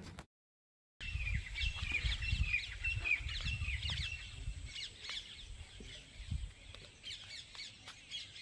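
Birds chirping, many short falling chirps in quick succession that thin out after the first few seconds, over a low rumble of wind on the microphone.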